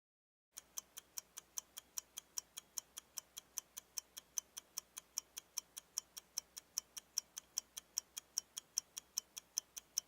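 Ticking clock, a steady fast tick of about five ticks a second, starting about half a second in.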